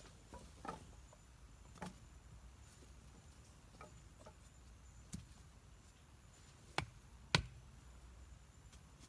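A handful of sharp, scattered knocks over a quiet background, the loudest two close together about seven seconds in.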